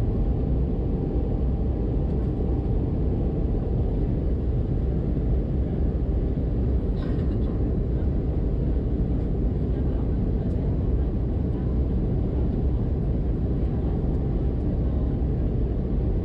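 Steady cabin noise inside an Airbus A320-200 in flight: an even low drone of airflow and engines.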